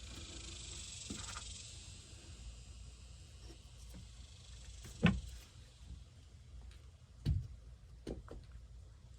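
Wooden supports being handled and fitted inside a van: two sharp knocks about five and seven seconds in, then a lighter one, over a steady high hiss.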